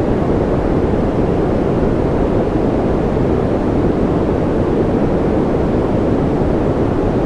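Steady, unchanging white noise for infant sleep: an even rushing hiss weighted toward the low end, with no pitch or rhythm.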